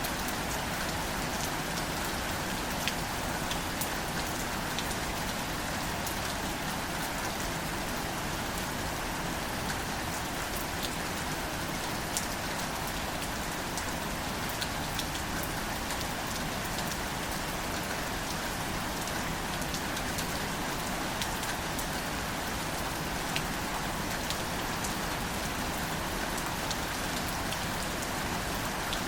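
Steady rain falling on greater celandine wildflowers: an even hiss of rainfall, with single drops ticking sharply now and then.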